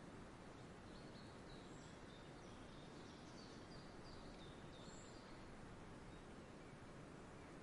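Faint outdoor nature ambience: a steady low noise bed with small birds chirping in short high bits, clustered in the first few seconds.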